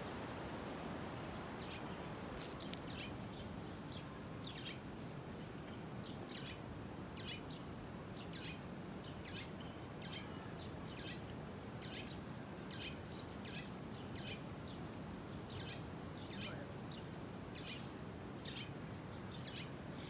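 Small birds chirping, short high chirps repeating one or two a second, starting about a second and a half in, over a steady outdoor background hiss.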